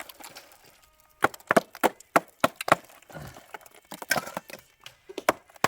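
A series of sharp knocks or cracks, about three a second at first, then irregular.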